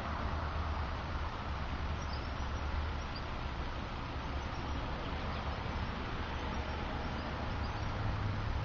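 Steady rumble of road traffic, with a few faint, short bird chirps about two to three seconds in.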